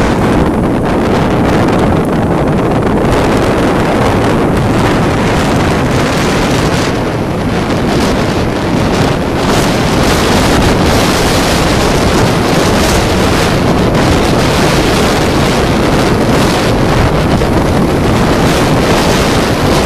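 Strong wind buffeting the microphone in a loud, gusty rumble, over the roar of storm waves on the sea.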